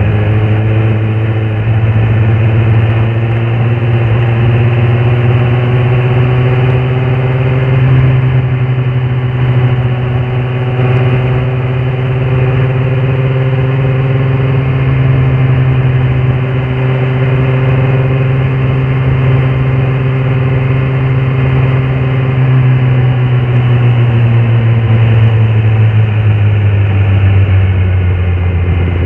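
Kawasaki ZX-10R SE's inline-four engine running steadily under way, its note rising a little in the first few seconds, holding, then easing down slightly near the end.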